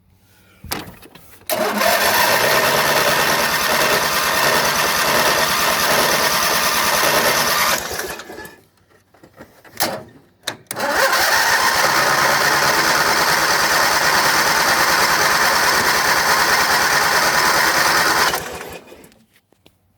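John Deere GT225 garden tractor's electric starter cranking the engine in two long tries of about six to seven seconds each, the engine turning over steadily but not firing. A short click comes just before each try.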